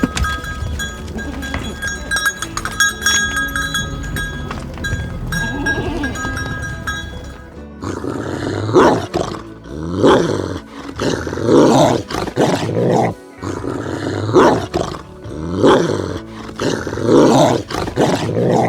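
Steady ringing tones over a low hum for the first half, then a big cat roaring, a run of about seven loud calls spaced roughly a second and a half apart.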